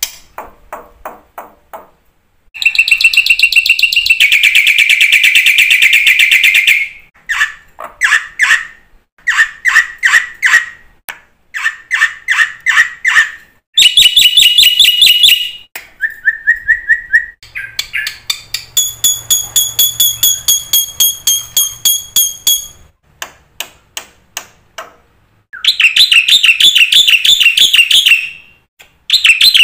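Black-winged starling (jalak putih) singing a loud, varied song. It has fast runs of repeated notes, harsh buzzy phrases and a short clear whistle, with brief pauses between phrases.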